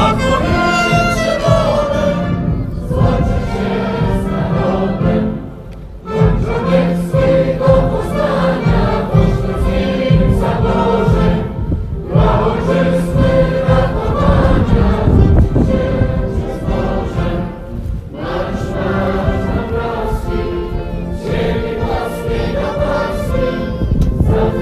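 A choir singing with instrumental accompaniment, in phrases broken by short pauses about every six seconds.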